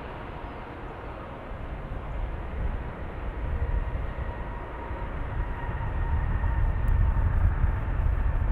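Jet airliner engines rumbling and growing steadily louder, with a faint steady whine over the rumble that fades near the end.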